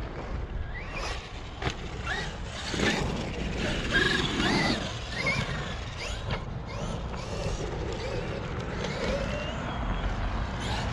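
Traxxas XRT RC truck driving on a dirt track: its brushless electric motor whines up and down in pitch with the throttle over tyre noise on dirt, with several sharp knocks from the chassis and landings.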